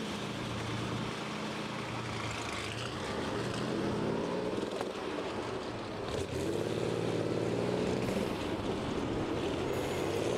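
The Rolls-Royce Hurricane's 27-litre V12 aero engine running as the car pulls away, its note climbing, dropping abruptly about six seconds in, then climbing again.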